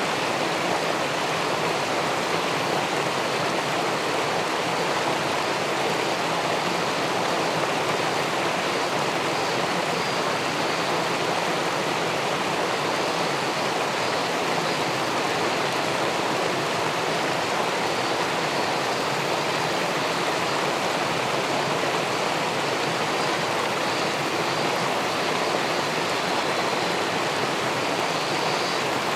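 Steady rush of river water pouring over a weir into the pool below, an even, unbroken sound of flowing water.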